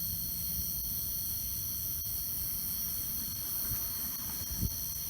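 Steady high-pitched chorus of night insects, several trilling pitches held without a break, over low handling rumble, with a soft bump near the end.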